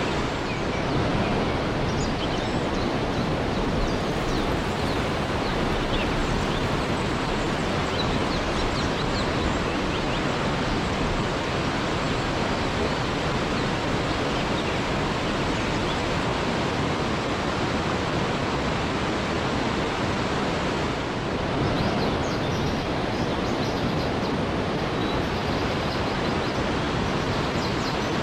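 Waterfall rushing in a steady, dense roar of falling water, with faint high chirps or splashes over it at the start and again a little after twenty seconds in.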